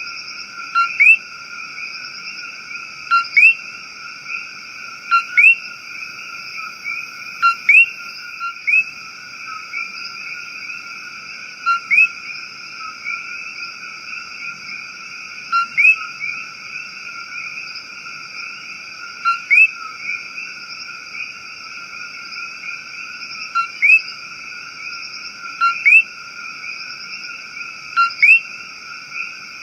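Rainforest frog chorus: a steady, dense high-pitched calling in several layers, over which a short rising call, often given twice in quick succession, repeats every two to four seconds.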